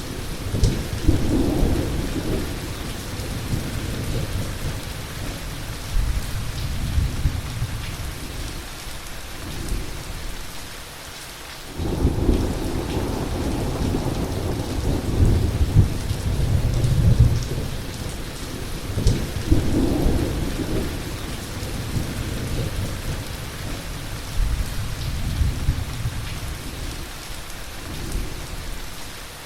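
Heavy rain falling steadily under repeated rolls of thunder. The rumbling eases off about ten seconds in, then a new roll of thunder breaks in suddenly a couple of seconds later and rumbles on.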